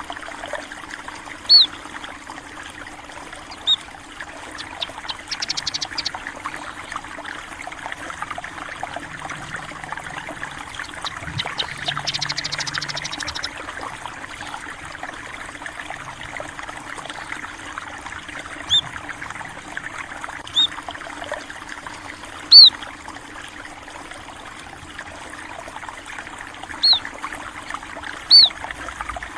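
Steady trickle of flowing water, with short, sharp bird chirps every few seconds and two brief rapid trills.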